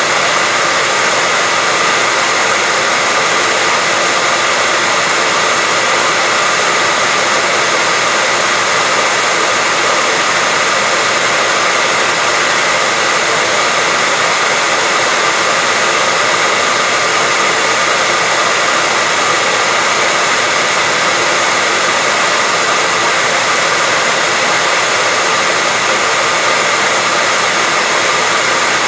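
Electric hair dryer running steadily: an even, unbroken rushing blow with a faint steady whine in it, played continuously as white noise to lull a baby to sleep.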